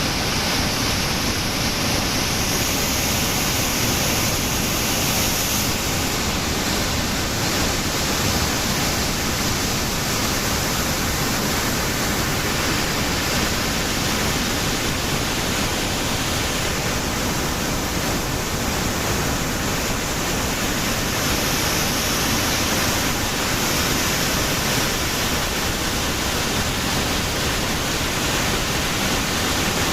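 Langfoss waterfall's falling water: a steady, even rush of water noise with no breaks.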